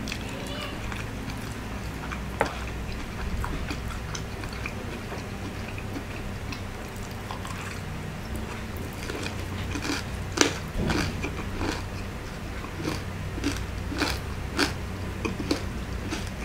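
Close-up chewing and biting of crispy fried pork belly, lechon kawali, with rice: wet mouth sounds and short crisp crunches. The crunches are few at first, then come thick and loud in the second half.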